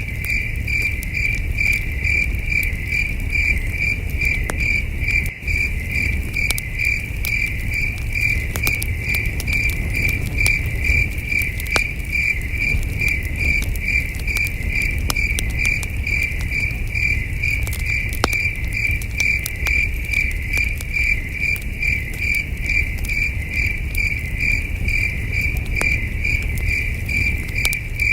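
Crickets chirping in a steady, even pulse, a few chirps a second, over the scattered snaps and crackles of a campfire and a low rumble.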